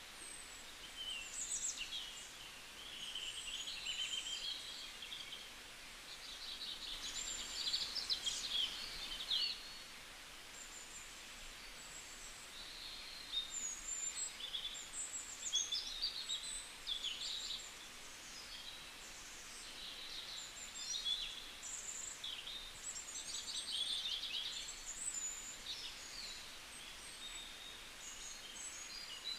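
Many small birds chirping, with short, high, quick calls overlapping one another over a faint hiss.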